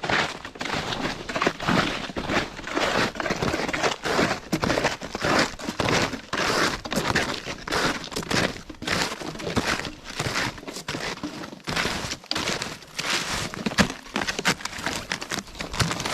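Snowshoes crunching through fresh snow in a steady walking rhythm, a crunch with each step.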